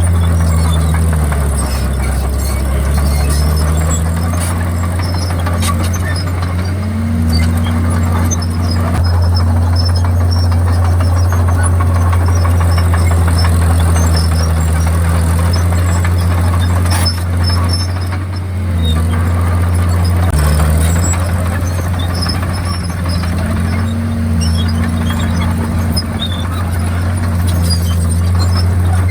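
Komatsu D51PX bulldozer's diesel engine running steadily under working load, its pitch stepping up and down as the load changes, with a brief dip a little past the middle.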